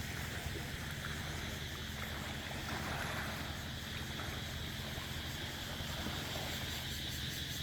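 Steady outdoor evening ambience: the even, high drone of cicadas, with a low steady hum beneath it.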